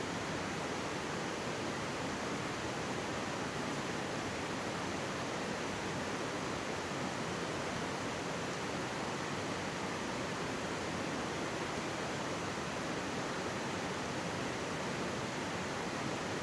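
Mountain stream flowing steadily, an even rush of water with no let-up.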